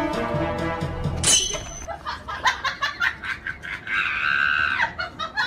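Background music that cuts off about a second in, followed by a sharp high swish and a run of quick, choppy high-pitched comic sound effects, with one longer held squeal near the end.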